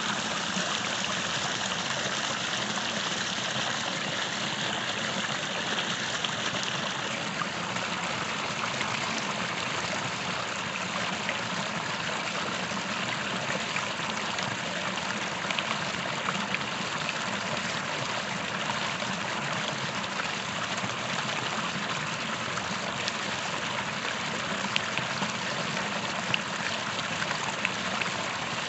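A small creek flowing over stones: steady rushing water with small splashes and trickles.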